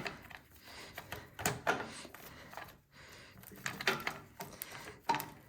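Scattered light clicks and knocks of a hand tool on metal as bolts are worked loose on a snowblower.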